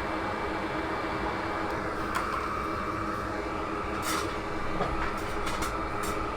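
Steady fan-like whir from soldering bench equipment, with a faint hum and a few brief high crackles in the second half.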